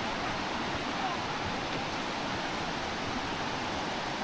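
Creek water flowing steadily, an even rushing noise.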